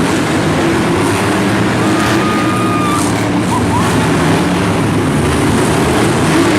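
Monster truck engine running loud and steady under a dense wash of noise. A thin, high steady tone sounds briefly about two seconds in.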